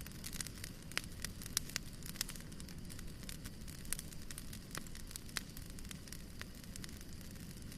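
Fire burning in a fireplace, with irregular sharp crackles and pops over a steady low rumble.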